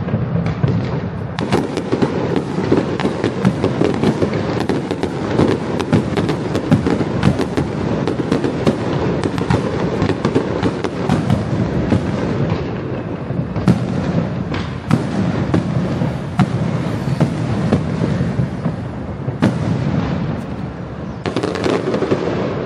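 Fireworks going off in dense, continuous crackling with many sharp, louder cracks throughout. The sound cuts off suddenly at the end.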